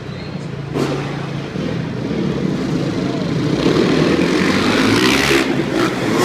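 Dirt bike engine running and revving, growing louder to a noisy rush in the second half.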